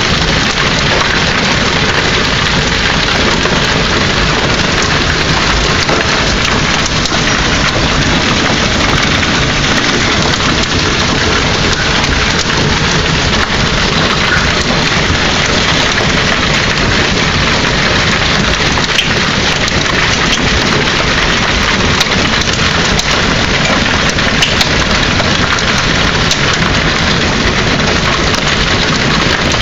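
Hailstorm: a loud, steady, dense clatter of countless hailstones and raindrops striking surfaces.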